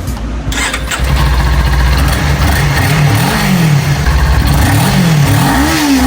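Kawasaki Ninja 400's parallel-twin engine starting up about half a second in, then running and being revved a few times from about three seconds in, the pitch rising and falling with each blip.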